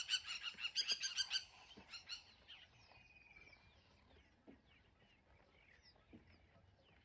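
High-pitched bird calls, loud and rapidly pulsed for about the first second and a half, then faint scattered bird chirps over a quiet outdoor background.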